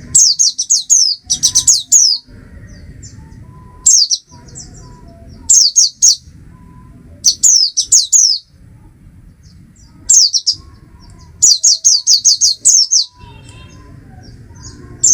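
Oriental white-eye (Zosterops palpebrosus) singing: phrases of a second or two made of rapid, high, downward-sliding notes, repeated about six times with short pauses between.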